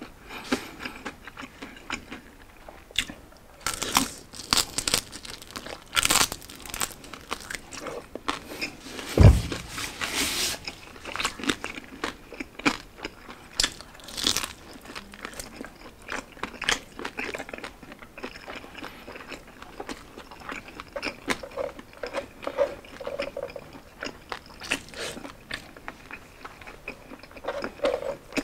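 Close-up crunching and chewing as crispy roasted pork belly (liempo) is bitten and eaten, the crackled skin giving many short crisp crunches. A single heavy thump about nine seconds in.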